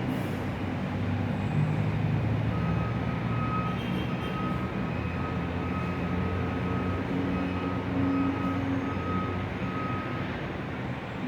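Hot-air rework station blowing steadily, its fan giving a constant rushing hiss with a low hum, while it reflows solder paste into solder balls on a chip. A faint, short, high beep repeats a little more than once a second through most of it.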